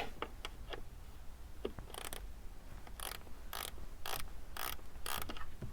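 Ratchet wrench clicking in short strokes, about two a second, tightening the loose bolt that holds the door check strap frame.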